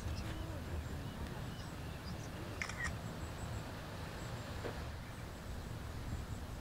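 Faint, short, high bird chirps scattered over a steady low rumble of wind on the microphone, with a brief cluster of clicks about two and a half seconds in.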